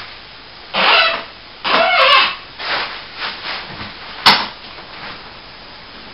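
Plasterboard sheet lifter being wound up under a ceiling sheet: two loud squeaking strokes about a second and two seconds in, fainter strokes after, and a sharp click about four seconds in.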